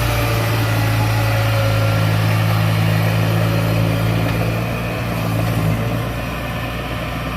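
Kubota DC70 combine harvester's diesel engine running at a steady speed, a constant low hum that eases slightly near the end.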